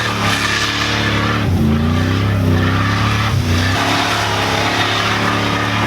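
Lifted 4x4 pickup truck's engine running, its pitch dipping and rising a few times as it is revved.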